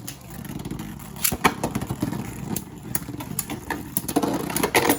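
Cartoon sound effects: a steady engine-like whirring with many sharp clicks and clashes throughout, loudest near the end.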